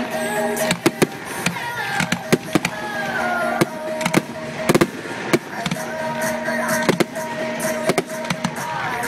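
Fireworks bursting in an irregular string of sharp bangs and crackles, often several a second, over loud pop music with singing.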